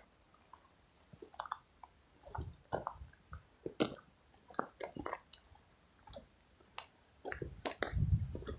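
Faint, irregular small clicks and crunches, with a brief low rumble near the end.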